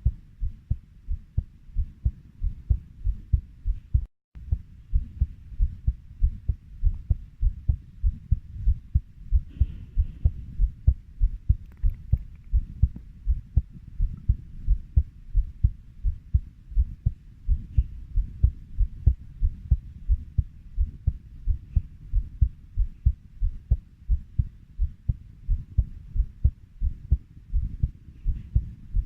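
Heartbeat at a steady 90 beats a minute, each beat a low double lub-dub thump, with a brief dropout about four seconds in.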